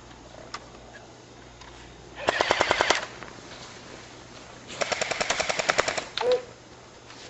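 Electric airsoft rifles firing on full auto: two rapid bursts of shots, a short one of about ten shots, then a longer one of about fifteen shots a couple of seconds later.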